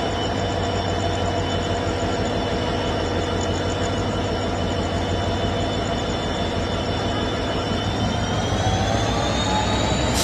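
Passenger train running, with the steady hum of the EMD WDP4D diesel locomotive hauling it over a rumble of running on the track. The hum's pitch rises gently near the end.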